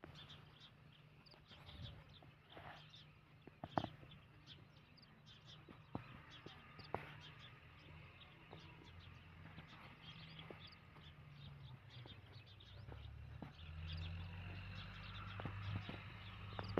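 Outdoor ambience: many short animal chirps over a low, steady hum that grows louder about 13 seconds in, with a few sharp knocks along the way.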